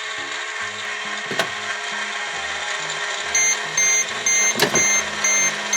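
Toy microwave running with a steady electronic hum, then beeping: a row of short high beeps from about halfway, ending in one long beep as the cooking cycle finishes.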